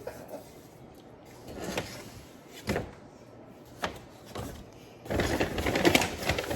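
Food-preparation handling noises: a few separate sharp clicks and knocks of containers and utensils, then a dense crackling rustle of packaging near the end, the loudest part.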